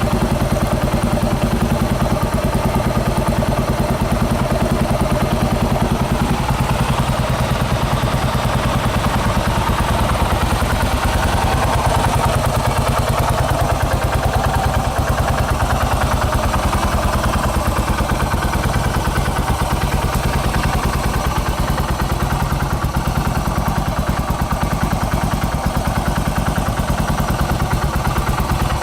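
Yamaha SR400 air-cooled single-cylinder four-stroke, bored to 534cc with an FCR41 carburettor, idling steadily with its even, fast exhaust beat. The engine is cold and warming up after a kick start at 5 °C with the oil at 7 °C.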